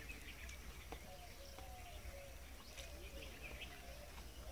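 Faint outdoor ambience: a bird calling softly over and over in short, dipping notes, over a steady low rumble.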